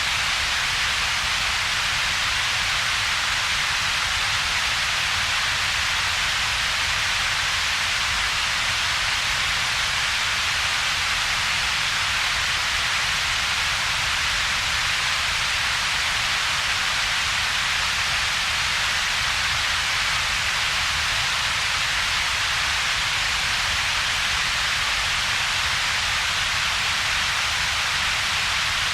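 Steady synthetic double-peaked noise, a constant hiss with no changes. Its strongest part sits in the upper middle of the range, with a weaker low rumble beneath and a hollow gap between the two.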